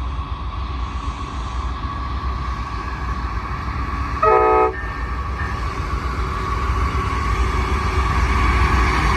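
Amtrak P42DC diesel locomotive's multi-chime horn sounding one short blast about four seconds in, over the steady low rumble of the approaching train, which grows slowly louder.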